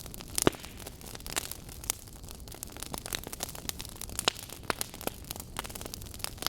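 Wood fire burning with a steady low rush and irregular crackles and pops from the logs, the sharpest pop about half a second in.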